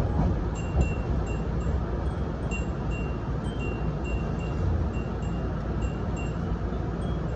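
Furin wind chimes hung inside a Nose Electric Railway 7200 series train tinkling in short, light strikes, about three a second, over the steady low rumble of the train running.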